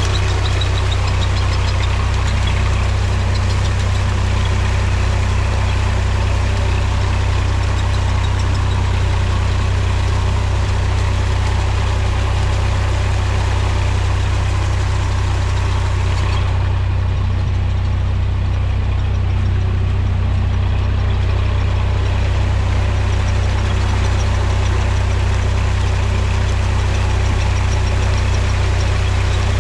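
Mahindra tractor's diesel engine running steadily, a constant low rumble with a faint regular pulse.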